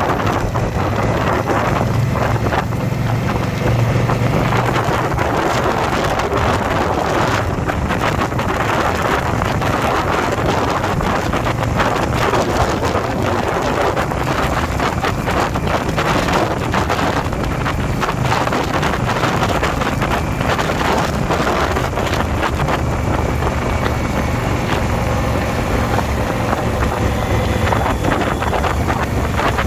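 Wind buffeting the microphone of a motorcycle riding at road speed, over the steady drone of the Indian motorcycle's engine.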